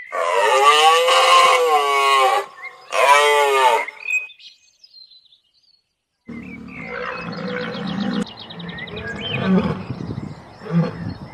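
Two loud squealing calls from a white rhino calf, each rising then falling in pitch, the first about two seconds long and the second about one. From about six seconds in, lion cubs growl and grunt in short low bursts as they wrestle.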